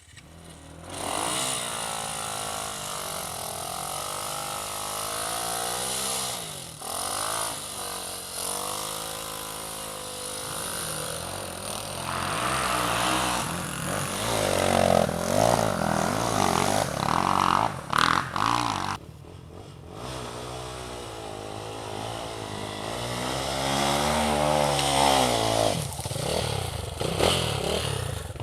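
Light enduro motorcycle engine revving up and down, its pitch rising and falling over and over as the throttle is worked, with a short sharp drop about two-thirds of the way through.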